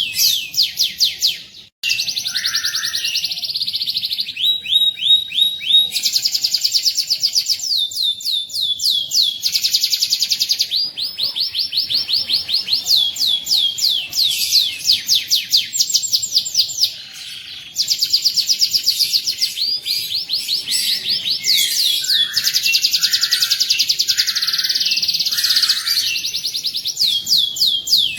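Domestic canary singing long rolling trills, each a fast run of the same high note repeated many times a second, passing from one roll to the next with two brief breaks.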